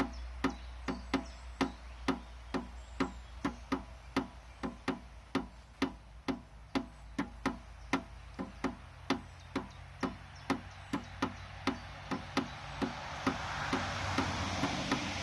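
Steady rhythmic tapping, about two to three knocks a second, each with a short low ring, like hand-played percussion. A rushing hiss builds underneath near the end.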